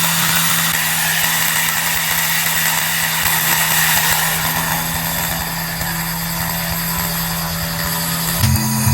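A power tool running steadily, a constant hum under a dense hiss, as in workshop grinding or blasting of parts. About eight seconds in, the low hum changes to a heavier, deeper sound.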